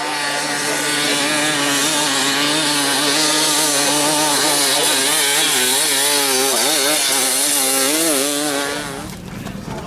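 Small two-stroke engine held at high revs, its pitch wavering up and down as the throttle is worked, then dropping away about nine seconds in.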